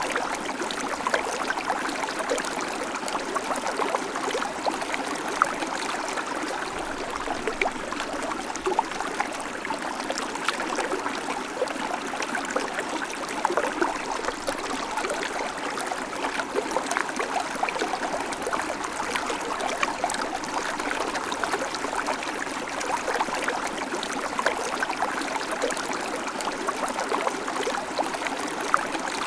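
Small creek babbling and trickling over stones, a steady rush with many small splashes and gurgles.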